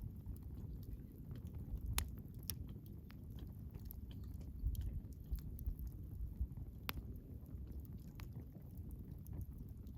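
Wood bonfire burning: a low steady rumble of flames with scattered sharp crackles and pops from the burning wood. The loudest pops come about two seconds in and again near seven seconds.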